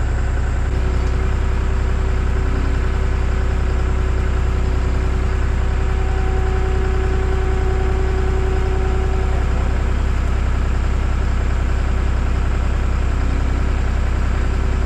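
John Deere 240 skid steer's diesel engine running steadily at a constant speed, with a steady whine held over it.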